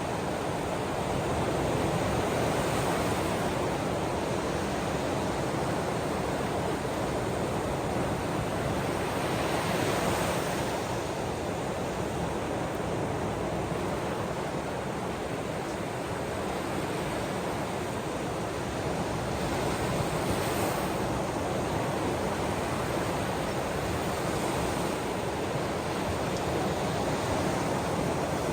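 Ocean waves washing onto the shore: a steady wash of surf that swells gently every several seconds.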